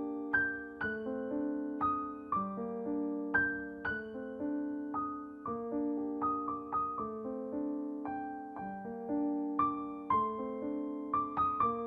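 Slow, soft solo piano music: single notes and chords are struck about one or two a second and left to ring and fade.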